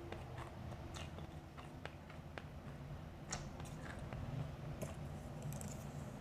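Close-miked chewing of blended ice made from frozen grape soda: irregular, sharp little crunches and crackles several times a second, over a steady low hum.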